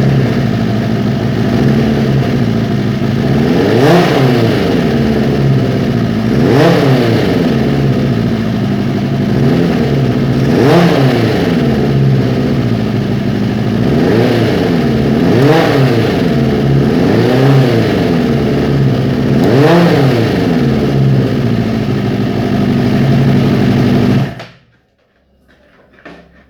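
Suzuki GSX400 four-cylinder DOHC motorcycle engine idling through its exhaust, blipped about seven times with quick throttle revs, then shut off abruptly near the end.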